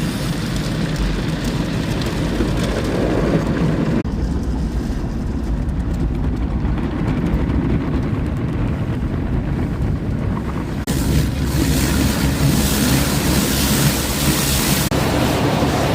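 Automatic tunnel car wash heard from inside the car: a steady low rumble of the wash machinery. About two-thirds of the way in a loud hiss joins in.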